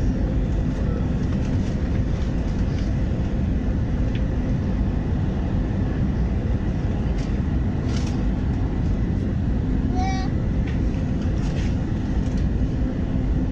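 Steady roar of an airliner's engines and rushing air heard inside the passenger cabin in flight, with a low hum under it. A brief, higher pitched sound cuts through about ten seconds in.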